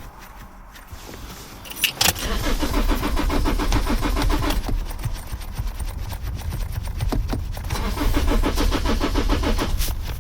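Car starter motor cranking the engine, a rapid, even chugging that comes in two runs, about two seconds in and again near the end, each begun or ended by a click, without the engine catching: a hard-starting car.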